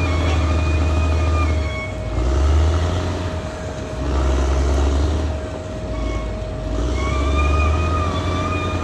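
Caterpillar D6R XL bulldozer at work: a diesel engine rumble that swells and dips every couple of seconds as the load changes, over a steady whine, with a higher squealing tone that fades out in the middle and comes back near the end.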